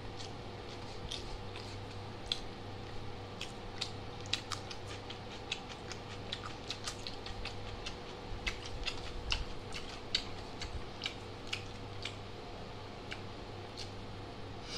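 A person chewing a mouthful of rice and chicken curry close to the microphone: irregular small wet clicks and smacks from the mouth, over a steady low hum.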